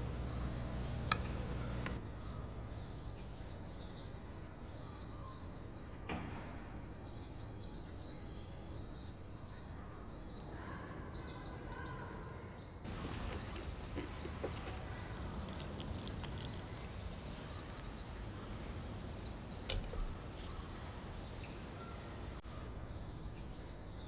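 Small birds chirping continually as background ambience, with a few faint clicks.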